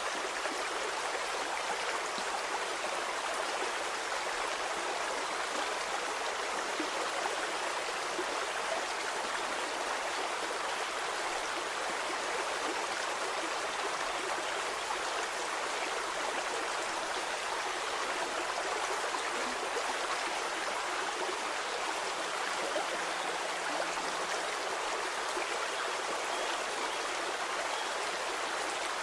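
Stream water flowing steadily over stones, a continuous even rush with fine gurgling and trickling.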